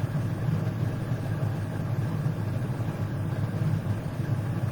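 A steady low rumble running evenly throughout.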